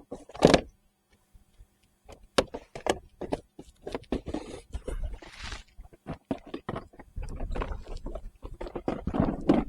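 Irregular clicks, knocks and rattles of tackle boxes and lures being handled while a lure is picked out, with a brief rustle about halfway through and busier clattering near the end.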